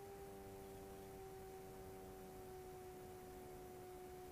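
Near silence with a faint steady hum of two tones, drifting very slightly lower in pitch.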